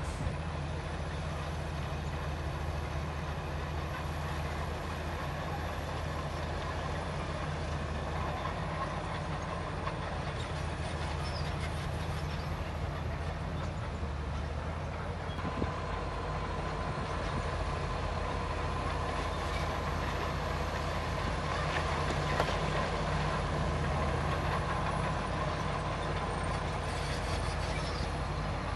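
Heavy earthmoving machine's diesel engine running steadily with a low rumble. A faint high whine sets in about halfway through.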